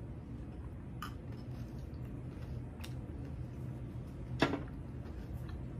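Chewing a mouthful of crunchy honey almond cereal soaked in orange juice, with a few faint clicks and one louder knock about four seconds in.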